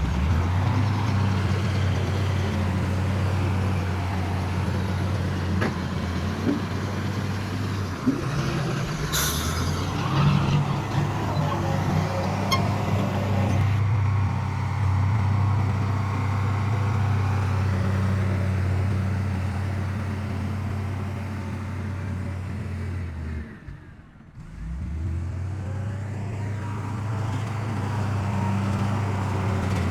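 Heavy diesel earthmoving machinery running steadily, a low engine drone. There is a brief hiss about nine seconds in, and the sound drops away for about a second some two-thirds of the way through.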